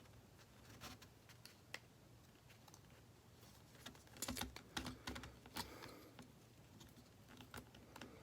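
Faint, scattered clicks and light taps of small smartphone parts being handled and pried apart, busiest around the middle.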